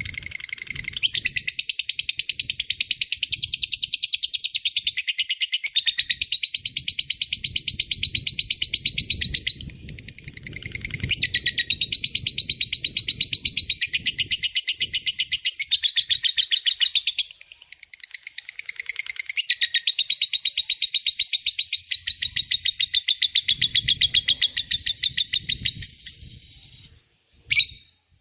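Lovebird ngekek: a long, rapid rattling chatter of fast repeated high notes. It comes in three bouts of roughly seven to ten seconds each, with short breaks between them, and ends with a couple of brief chirps.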